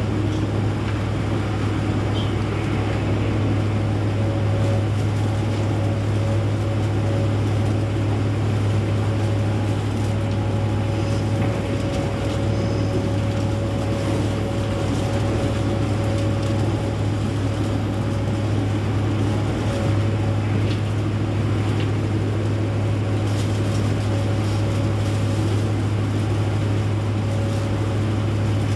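Steady rumble of a moving passenger train heard from inside the carriage: a low, even drone with a faint steady whine above it and a few light ticks.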